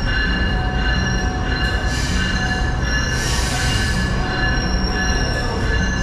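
GO Transit commuter train running with a steady low rumble and a high, sustained squeal of several tones from the wheels on the rails.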